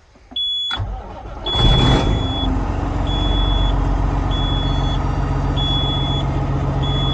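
Peterbilt 379 diesel truck engine cranked on the starter about a second in, catching with a brief surge and settling into a steady idle. The dash low-air alarm beeps steadily throughout, about one beep a second, because the air tanks are below about 60 psi.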